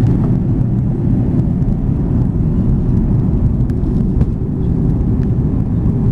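Steady low rumble of jet engine and airflow noise inside the cabin of an Airbus A330-200 on its descent to land, with a few faint ticks.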